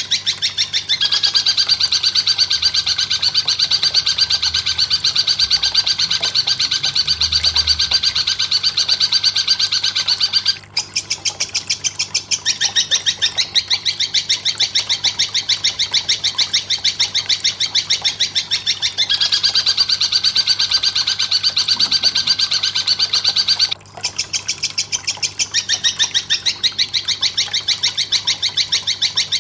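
Recorded bird calls from a songbird-training masteran track: a rapid, unbroken string of high chirps, cut off briefly twice.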